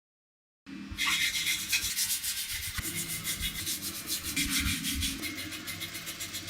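Abrasive rubbing in quick, evenly repeated strokes, like sanding or scrubbing a metal part by hand. It starts sharply about a second in, after silence.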